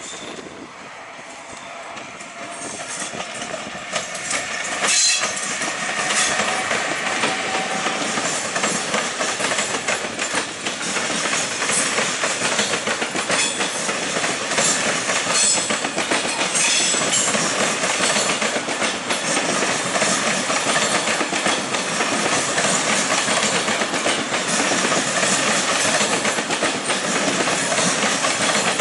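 A train approaching and passing close by: its noise grows louder over the first five seconds, then holds steady, with the wheels clattering over rail joints.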